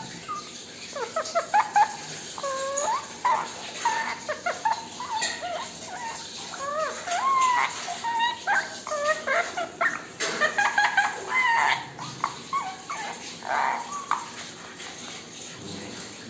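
Ringneck parrot chattering: a long run of short squeaky calls and whistles that slide up and down in pitch, with brief pauses between them.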